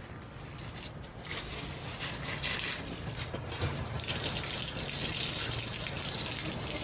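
Water running steadily, with a hiss that swells about a second in.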